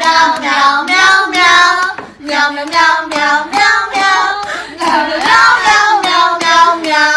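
A high, child-like voice singing a tune in held, wavering notes, with short sharp claps or taps at regular intervals.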